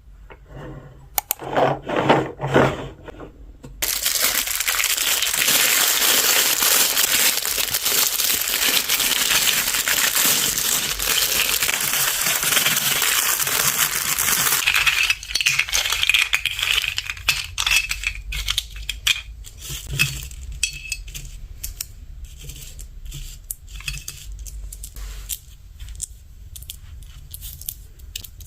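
Small hard plastic toy pieces being handled. A few separate knocks come first. From about four seconds in there is a dense, even clatter that stops suddenly at about fifteen seconds, and then scattered clicks and rattles follow.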